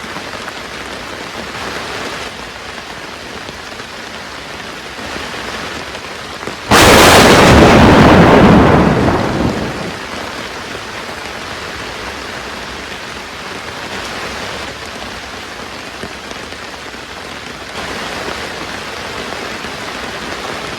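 Heavy rain falling steadily, with a sudden close clap of thunder about seven seconds in, by far the loudest sound, which dies away over about three seconds.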